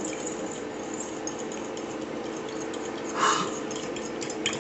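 Spoon and bowl sounds under a steady background hum: a brief scrape about three seconds in and a light clink near the end.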